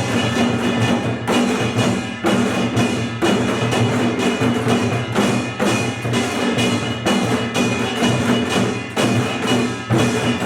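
Korean pungmul percussion ensemble, with a kkwaenggwari small gong, two buk barrel drums and six janggu hourglass drums, playing together in an unbroken rhythm of closely spaced strokes.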